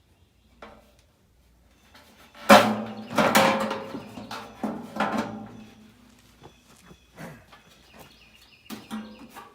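Metal clanking from a furnace blower assembly being worked by hand: a sharp bang about two and a half seconds in, then a few seconds of clattering knocks with a ringing tone, and a few lighter knocks near the end.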